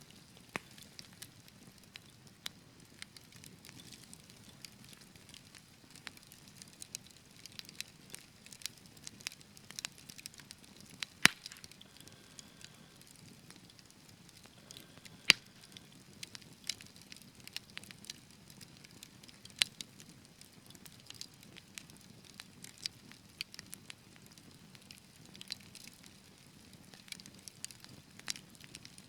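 Wood fire crackling: a steady run of small sharp pops and snaps over a faint hiss, with two louder pops about 11 and 15 seconds in.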